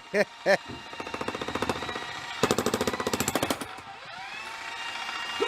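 Electric jackhammer breaking concrete: the motor whine rises and levels off, and the hammer pounds rapidly in bursts, the strongest lasting about a second, a little past halfway.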